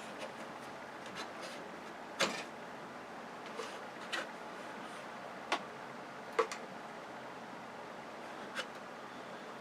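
Scattered light clicks and knocks of TV parts being handled during disassembly, about eight of them at uneven intervals, the sharpest about two seconds in.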